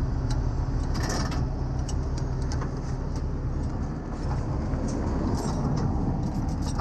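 A heavy truck's engine idling steadily, with scattered light clinks of tow chains being handled.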